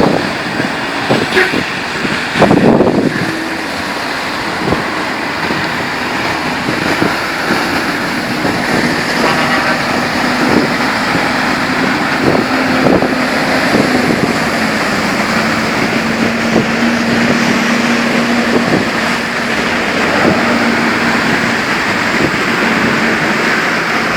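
Road traffic: motor vehicles running and passing, with scattered knocks, a louder passing about two seconds in and a steady low hum through the middle stretch.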